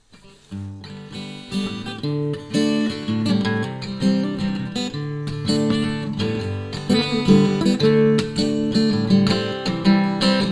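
Acoustic guitar strumming chords as an instrumental intro, starting about half a second in.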